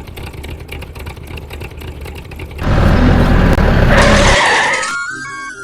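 Small electric motor of a home-made toy tractor buzzing steadily, then about two and a half seconds in a much louder rushing noise for about two seconds, with music starting near the end.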